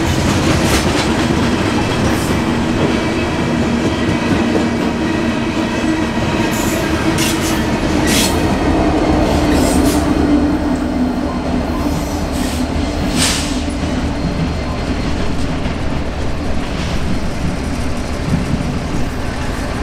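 Loaded steel-coil freight cars rolling past with wheels clacking over rail joints and a few brief high squeals. About halfway through, a trailing diesel locomotive passes close by, its engine adding a steady drone.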